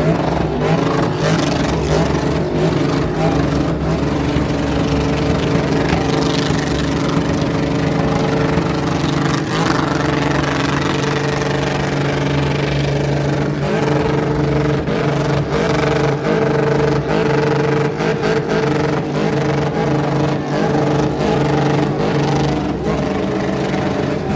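Car engine running loud at high revs, held steady for long stretches with slight rises and dips.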